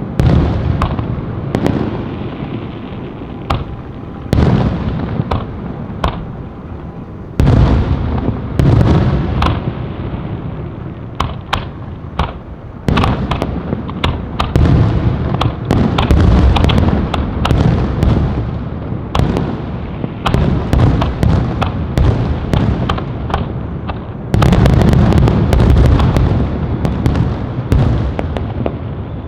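Fireworks going off continuously: deep booms with long rolling echoes, overlaid with many sharp cracks and rapid crackling volleys, densest about halfway through and again near the end.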